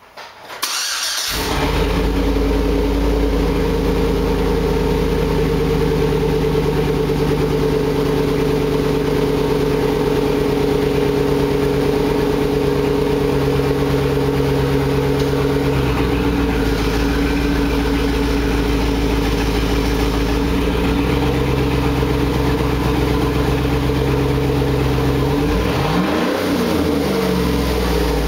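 A 2008 Chevy Suburban's 5.3 Vortec V8 with its exhaust dumped cranks and fires about a second in, then idles loud and steady. Near the end the engine is revved once, its pitch rising and falling.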